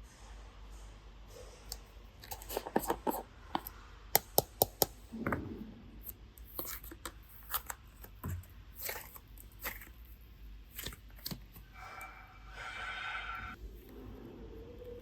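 Scattered sharp clicks and taps, with four loud ones in quick succession about four seconds in, from hands working clay and slime and handling small hard pieces. A brief pitched squeak sounds a little before the end.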